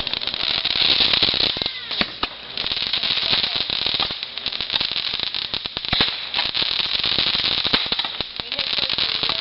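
Consumer fireworks going off in a dense run of rapid crackling pops, with a few sharper cracks standing out about two seconds and six seconds in.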